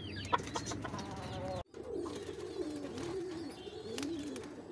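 Chicken calls for the first second and a half, then, after an abrupt cut, a low, wavering cooing with a few faint high chirps.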